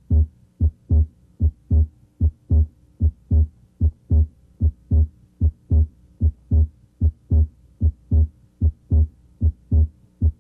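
Human heart sounds heard over the chest at the left third intercostal space: a steady lub-dub, S1 then S2 in pairs about 0.3 s apart, at roughly 75 beats a minute. At this spot both components of S2, aortic A2 and pulmonic P2, may be heard, splitting late in deep inspiration.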